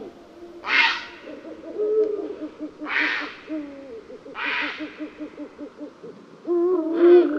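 Owls hooting: low, quavering hoots with a long wavering trill through the middle, broken by three short harsh calls.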